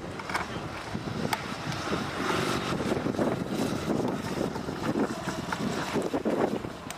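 Speedway motorcycle engine running as the bike circles the dirt track, the sound swelling and fading, with wind buffeting the microphone. There are a few sharp clicks, near the start, about a second and a half in and at the end.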